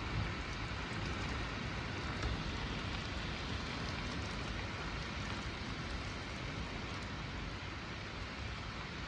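Heavy rain and wind of a severe thunderstorm, a steady rushing noise with a low rumble underneath.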